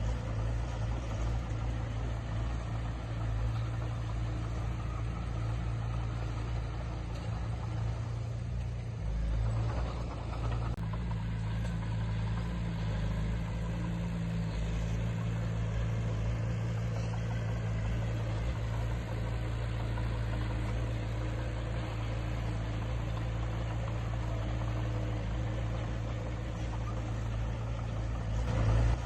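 Heavy earthmoving machine's diesel engine running steadily, with a brief dip and change in pitch about nine seconds in.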